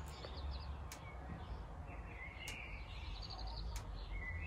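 Small songbirds chirping and singing in short phrases and quick trills, several times, over a low steady rumble.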